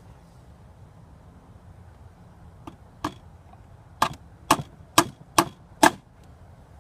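Hammer driving a small nail to fix a spacer in a beehive: two light taps, then five firm blows about two a second.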